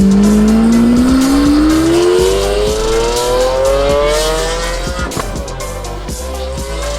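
Lamborghini Aventador SV's V12 engine through a titanium aftermarket exhaust, accelerating hard: its pitch climbs steadily for about five seconds, drops at a gear change, and climbs again. Background music plays underneath.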